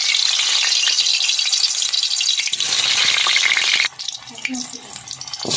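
Hot oil sizzling hard in a pan: a steady frying hiss. It cuts off abruptly about four seconds in and starts again just at the end.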